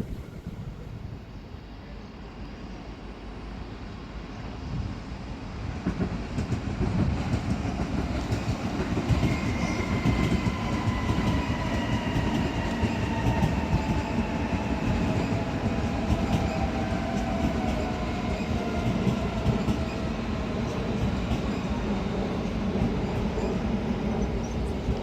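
A train running on the track, its rumble building from about six seconds in, with wheel clatter over the rails and several high tones gliding slowly down in pitch through the middle.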